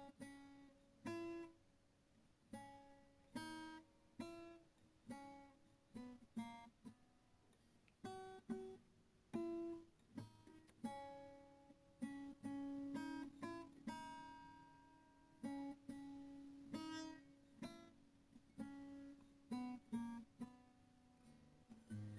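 Background music: an acoustic guitar playing slowly, plucking separate notes and chords that each ring out and fade.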